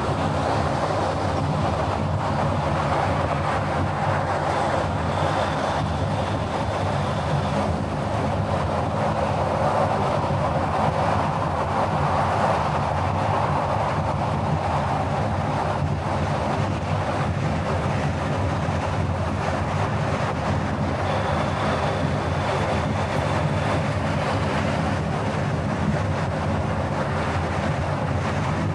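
Car driving along a city road: a steady rush of road and wind noise with a low engine hum underneath.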